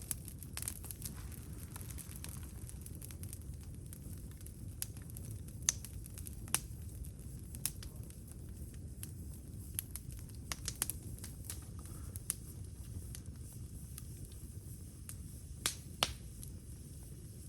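Wood campfire crackling: sharp pops at irregular intervals, two close together near the end, over a steady low rumble.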